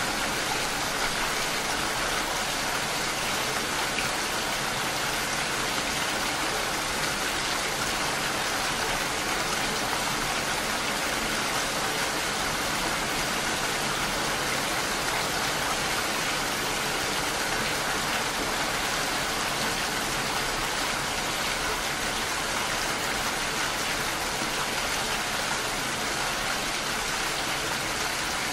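Steady rain: an even hiss of falling rain that holds without a break or change.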